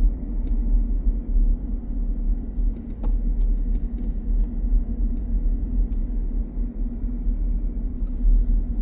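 A car driving: steady low rumble of road and engine noise, with a few faint clicks.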